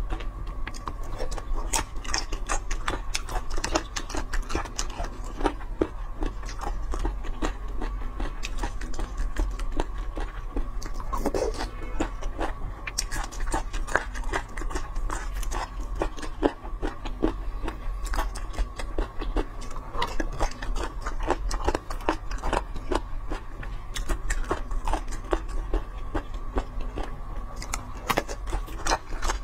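Close-up chewing and biting of food, with many quick wet clicks from the mouth, over a faint steady hum.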